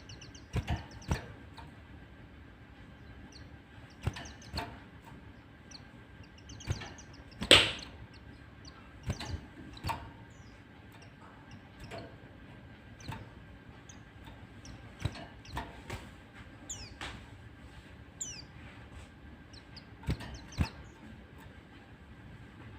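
White-eye (pleci) calls: scattered short, sharp chips and a few thin, high, down-slurred notes at irregular intervals, with one louder chip about seven and a half seconds in.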